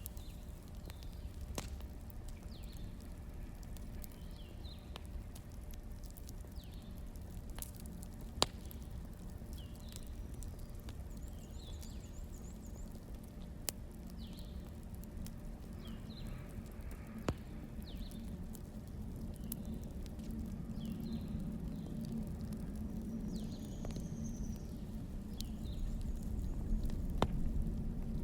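Wood fire crackling, with sparse sharp pops over a low steady rumble that grows a little louder near the end. Faint short high chirps recur about every second.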